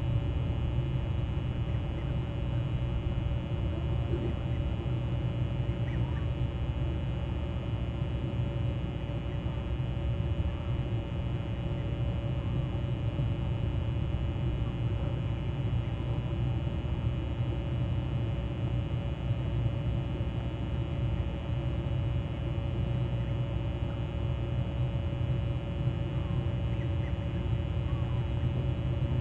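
Steady low outdoor rumble with a constant faint hum, and a few faint, brief bird calls now and then.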